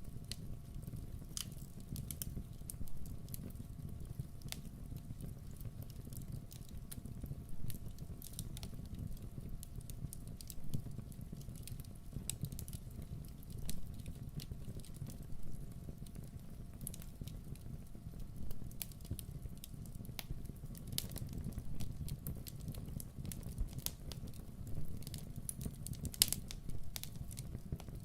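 Campfire burning with a steady low rumble and frequent, irregular sharp crackles and pops.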